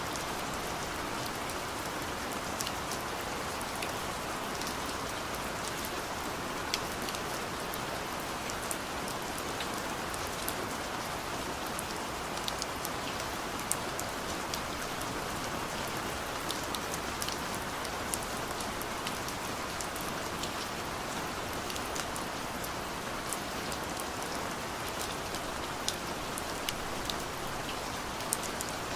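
Steady rain falling on a car's roof and windows, heard from inside the cabin: an even hiss with scattered sharp drop ticks.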